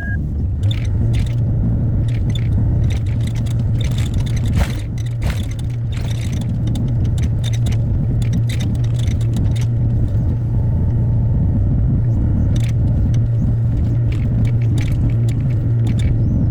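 Hyundai HX60A mini excavator's diesel engine running steadily under work, with scattered short scrapes and clicks through the drone.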